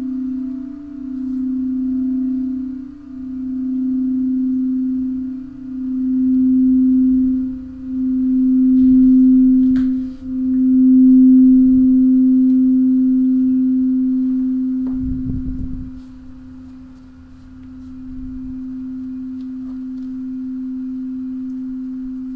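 A singing bowl, most likely a crystal bowl, holds one low, nearly pure tone that swells and fades in slow waves every two to three seconds. The tone grows loudest about halfway through, then settles quieter. A brief low rumble comes about two-thirds of the way in.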